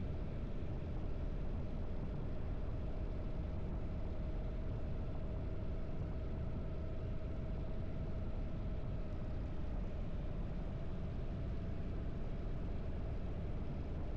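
Harley-Davidson air-cooled V-twin motorcycle engine running steadily at an even cruising speed, with no change in revs.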